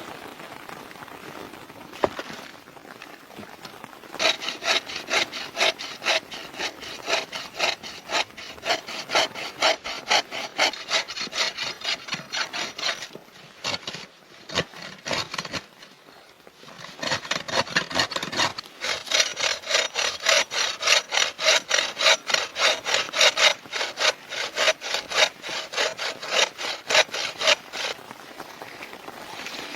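A hand saw cutting through wood with steady back-and-forth strokes, about two a second, in two bouts with a short pause between them.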